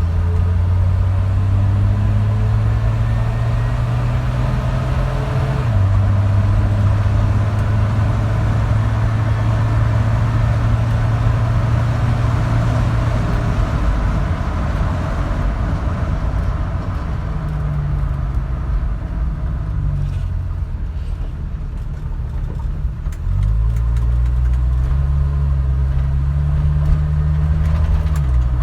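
1978 Dodge D100 pickup's freshly rebuilt slant-six engine running under way with road noise, heard from inside the cab. The engine note steps down about six seconds in, eases off through the middle, and picks up louder again about three-quarters of the way through.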